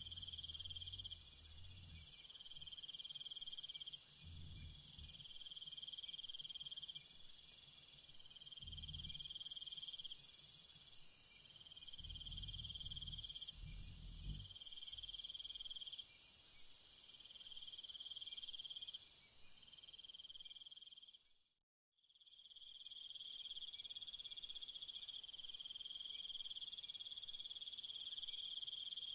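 Night chorus of crickets and other insects: overlapping high trills, one of them coming in repeated pulses a second or two long over a steady high buzz. A few soft low rumbles come in the first half. About three-quarters of the way through, the whole chorus fades out to silence for a moment and fades back in.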